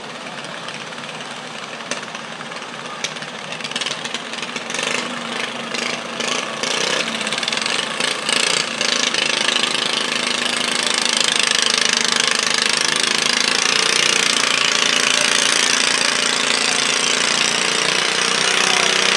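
Garden pulling tractor's engine running, uneven with sharp popping in the first half, then rising about halfway through to a steady loud full-throttle run.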